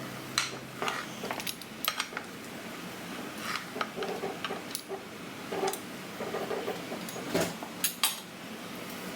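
Cutlery and dishes clinking, with scattered sharp clinks and a few short scrapes.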